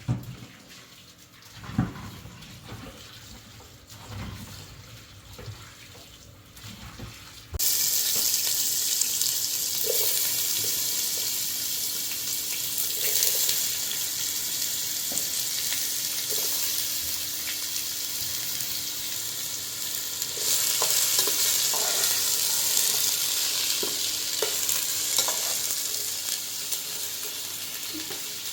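A few faint knocks and handling sounds. About seven and a half seconds in, a loud sizzle starts abruptly and keeps on with small crackles: food frying in hot oil in a pan.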